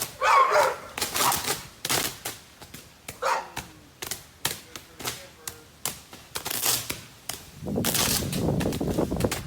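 Storm-damaged power line arcing: a string of irregular sharp snapping pops, with a longer, louder rush of crackling noise near the end.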